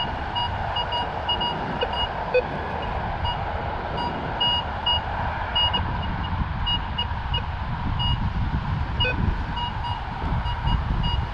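Minelab Vanquish 440 metal detector giving short, high target beeps at irregular intervals as it is swept over the hole, over the low rumble of wind buffeting the microphone.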